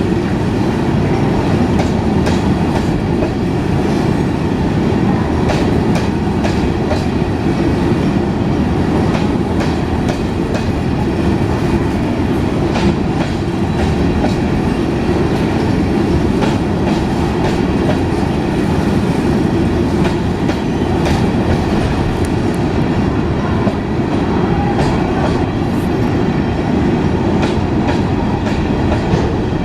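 Long train of empty coal wagons rolling past: a steady rumble with many irregular clicks and clatter of wheels over the rail joints.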